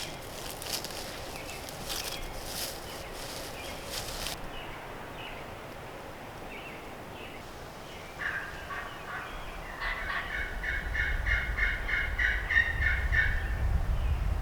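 Wild turkey gobbling: a quick rattling gobble about eight seconds in, then a longer one, with wind rumbling on the microphone from about ten seconds in.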